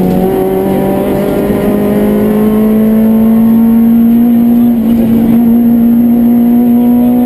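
Citroën Saxo rally car's four-cylinder engine pulling hard in one gear, its revs climbing slowly and steadily, heard from inside the cabin.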